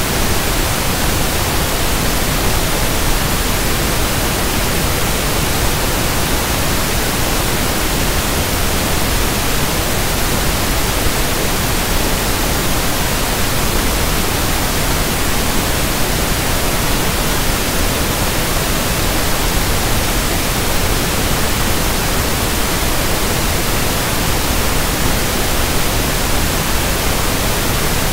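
Steady synthetic pink noise (1/f noise): a constant, even hiss across the whole range with nothing changing.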